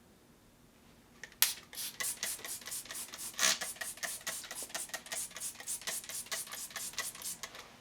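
Rapid back-and-forth scrubbing of a wood stove's glass door with a cloth, about four or five strokes a second, beginning with a sharp knock about a second and a half in.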